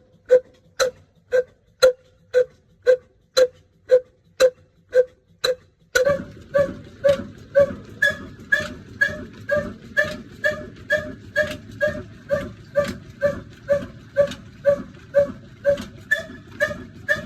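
Old Pakistani-made single-cylinder 'black' diesel engine running, its exhaust beating about twice a second. About six seconds in the beat turns a little faster and fuller, over a steady low rumble.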